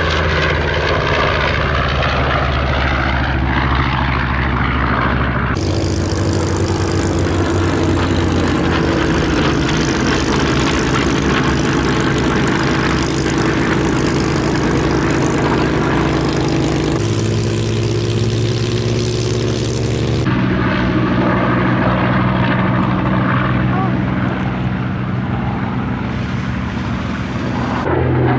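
North American B-25J Mitchell's twin Wright R-2600 Cyclone radial engines droning as the bomber flies its display, a steady propeller drone whose pitch shifts as it passes. The sound changes abruptly about five seconds in and again about twenty seconds in.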